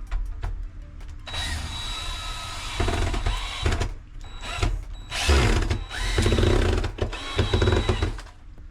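Power drill driving screws in several short bursts, stopping and restarting as each screw is run in.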